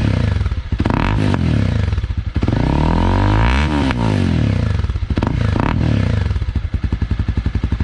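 Honda CB300R's single-cylinder engine running through a Yoshimura carbon-fibre slip-on exhaust, idling with a quick throttle blip about a second in, a longer rev that rises and falls in the middle, and another short blip later on.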